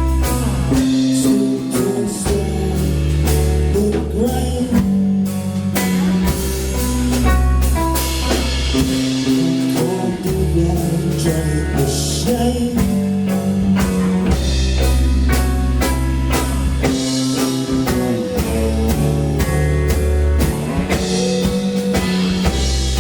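Live band playing a loud, steady blues-rock groove with electric guitar, bass and drum kit.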